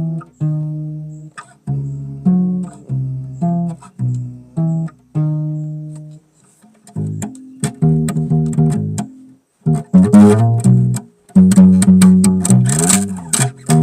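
Solo bass played live. Single plucked low notes ring out and die away one at a time, then a busier, louder run of notes starts about halfway. Near the end comes a slide up in pitch and back down.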